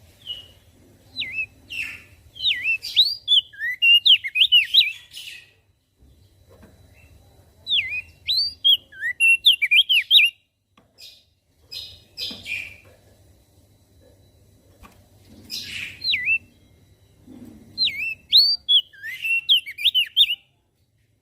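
Crested white-eye (opior jambul) singing three bursts of quick, swooping whistled notes with short pauses between them.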